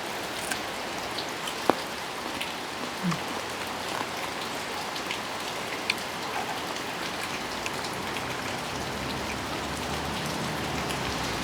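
Steady rain falling, with scattered drops ticking on nearby surfaces and one sharper tick about a second and a half in.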